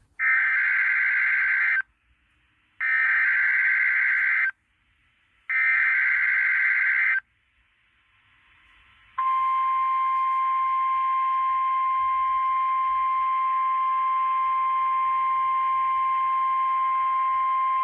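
Emergency weather alert signal: three short bursts of digital header tones, then a long, steady attention tone at one pitch starting about halfway through. It is the alarm that announces a National Weather Service winter storm warning.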